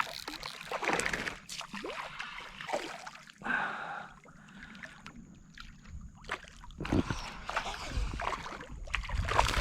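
Water splashing and sloshing irregularly at a kayak while a hooked ladyfish thrashes on the line, with scattered knocks against the boat.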